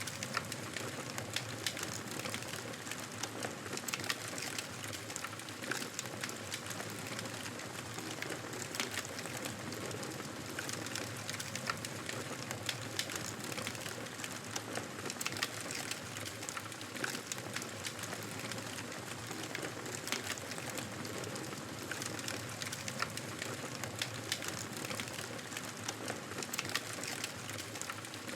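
Wood fire burning in a fireplace: a steady hiss of flames with frequent, irregular sharp crackles and pops.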